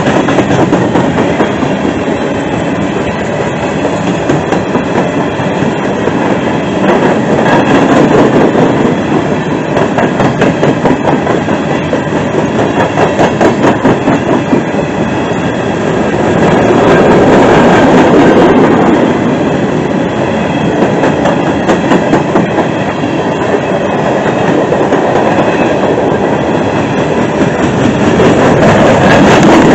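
Loud passing freight train of open-top hopper cars: a steady rumble and rattle of the cars, with steel wheels clacking rhythmically over the rail joints in repeated runs.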